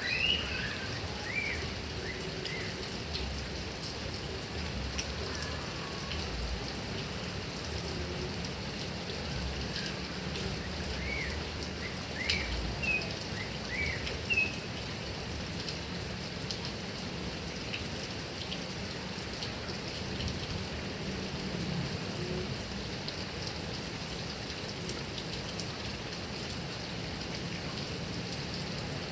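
Heavy rain falling steadily on grass and trees, an even hiss. A bird chirps a few times, briefly at the start and again about halfway through.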